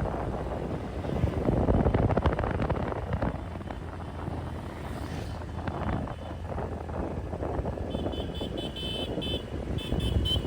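Surf washing on the beach with wind buffeting the microphone, swelling about two seconds in. Near the end, a quick run of short high-pitched chirps or beeps sounds over it.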